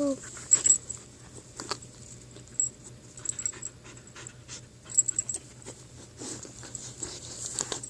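Dog panting close to the microphone while chewing grass, with many irregular small clicks and crackles.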